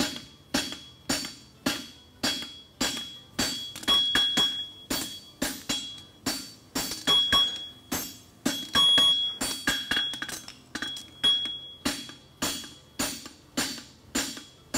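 Blacksmith's hammer striking hot steel bar stock on an anvil in a steady rhythm of about two blows a second, many with a high ringing anvil note; through the middle, lighter quick taps fall between the heavier blows. The steel is being upset, bumping the heel of a horseshoe.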